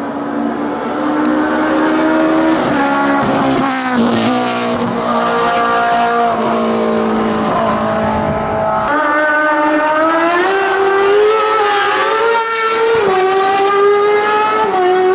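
Racing car engines at full throttle on a hillclimb, with the pitch climbing through each gear and dropping at every upshift. About nine seconds in the sound cuts to another car accelerating hard through its gears.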